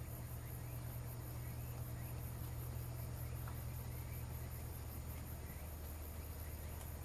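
Insects chirping in a fast, even, high-pitched pulse over a steady low hum, with a few faint short chirps.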